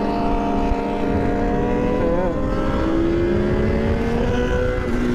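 Sport motorcycle engine running straight-piped, its muffler removed, while riding. The engine note holds steady, wavers briefly about two seconds in, then climbs slowly as it pulls.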